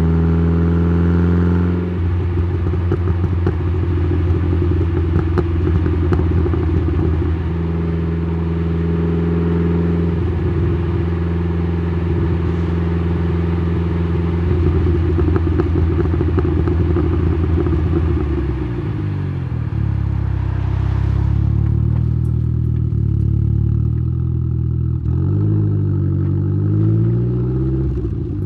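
Tailpipe sound of a tuned Saab 9-3's B204 turbocharged four-cylinder, through a 3-inch downpipe and Simons muffler. The revs climb briefly at the start, then hold a steady, rough drone. About two-thirds of the way through the revs fall away, and near the end they rise and fall a couple of times.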